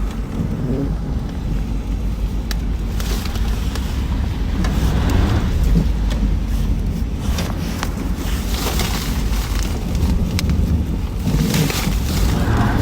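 A 2009 Jeep Commander's 5.7 Hemi V8 running with a steady low rumble as the SUV is driven through snow, heard from inside the cabin, with swells of road and tyre noise and a few faint clicks.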